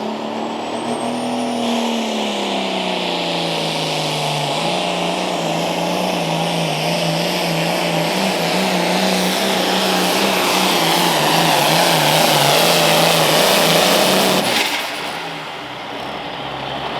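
A pulling tractor's engine at full throttle under load. Its note sags over the first few seconds, then holds with a wavering pitch while it grows louder, and cuts back suddenly near the end as the throttle comes off at the end of the pull.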